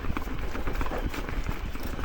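Specialized S-Works Levo SL e-mountain bike rolling over a rough dirt trail, with its frame and drivetrain giving off irregular rattling clicks and knocks over a steady low rumble of wind and ground noise.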